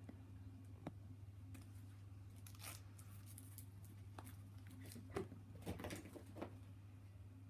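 Scattered light scuffs, clicks and brief crinkly rustles of a kitten playing with a fetch toy, over a steady low hum.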